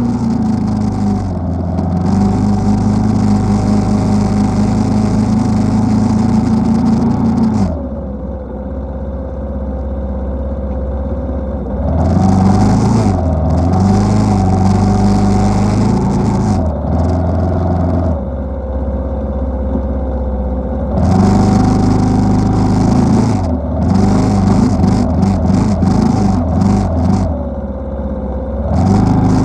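ATV engine pulling under throttle through snow. It eases off to a lower pitch about eight seconds in, revs back up around twelve seconds, and does so again around twenty-one and twenty-nine seconds. A hiss rides along whenever it is on the throttle.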